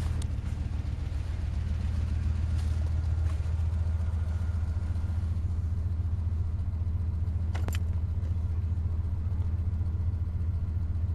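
Old Dodge pickup's engine idling steadily, warming up after a cold start in sub-zero cold. A brief sharp click about three quarters of the way through.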